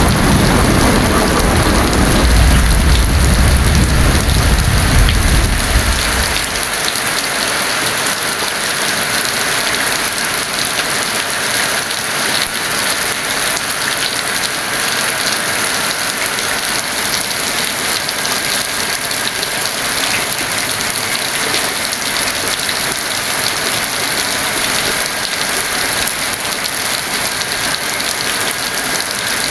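Heavy rain falling steadily. A roll of thunder rumbles deep underneath at first and dies away about six seconds in.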